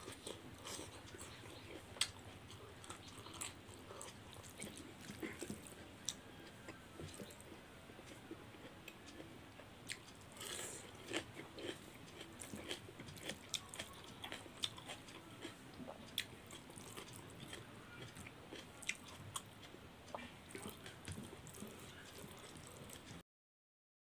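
Close-miked chewing and mouth sounds of a person eating rice and curry with the fingers: many small wet clicks and smacks over a quiet background. The sound cuts out completely for about a second near the end.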